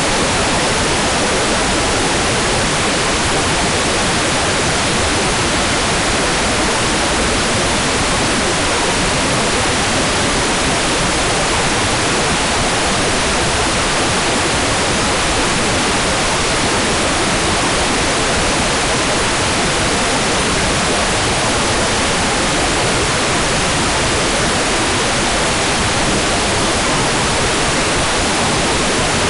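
Hair dryer running steadily, a constant even airy rush of noise with no change in level or pitch.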